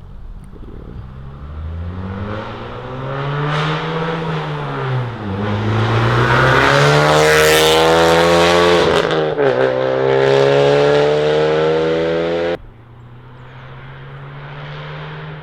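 Honda Civic Type R's turbocharged 2.0-litre four-cylinder accelerating hard through the gears on a catless downpipe and valved Remus cat-back exhaust, its rising note broken by two upshifts about five and nine seconds in. Near the end the sound drops suddenly to a lower, steady engine note.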